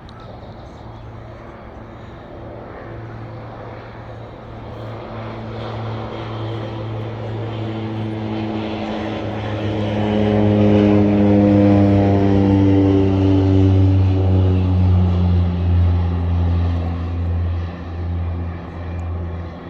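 Propeller aircraft flying past: its engine drone builds for about ten seconds, then drops in pitch as it goes by and eases off.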